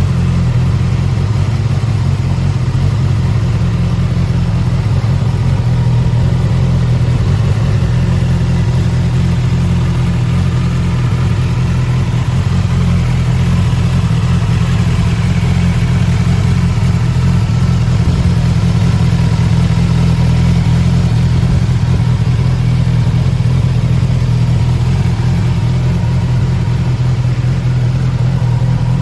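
Suzuki Katana motorcycle engine idling steadily at an even, unchanging speed.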